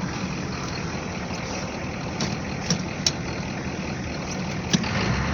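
Ford 6.9-litre IDI V8 diesel running steadily at low revs, with a few sharp clicks scattered through the second half.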